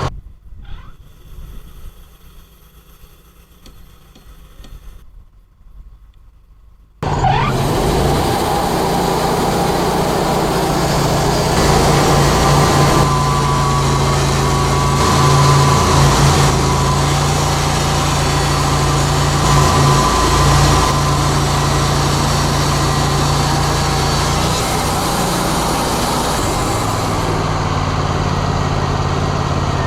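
Wood-Mizer LT40 hydraulic sawmill's engine running steadily and loudly. It comes in abruptly about seven seconds in, after a much quieter stretch, and swells a little a few times.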